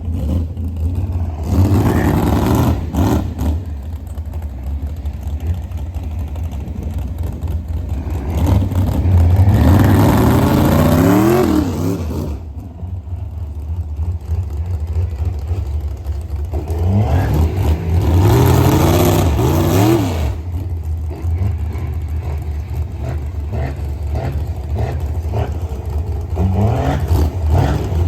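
Truck engine running with a steady low rumble, revved hard twice, its pitch climbing and falling back each time, once about a third of the way in and again past the middle.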